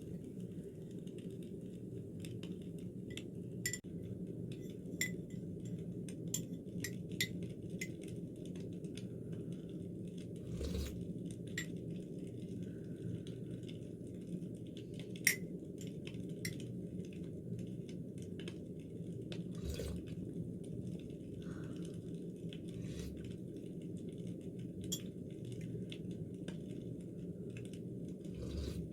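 Small clinks and taps of dishes and cutlery, scattered irregularly over a steady low hum.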